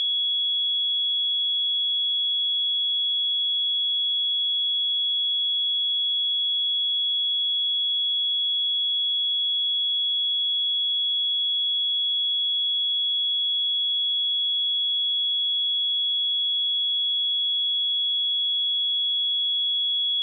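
A single steady 3357 Hz sine-wave test tone, one pure high-pitched note held at a constant level without change.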